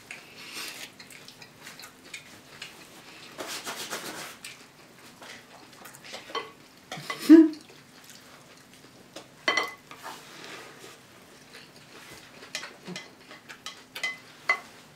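Spoons clinking and scraping in cereal bowls, with crunchy cereal being chewed in big bites. There are scattered light clicks and a brief louder vocal sound about seven seconds in.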